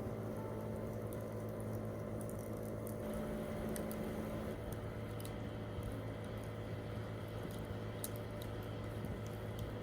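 Wood campfire burning, crackling with scattered small sharp pops over a steady low background.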